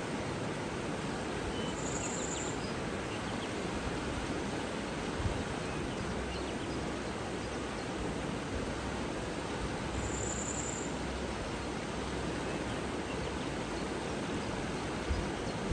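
Steady rush of flowing water, with two brief very high chirps about eight seconds apart.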